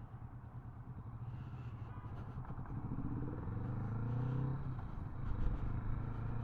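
Kawasaki Vulcan S 650's parallel-twin engine pulling under way, rising in pitch for a couple of seconds, dropping back about halfway through, then running steadily.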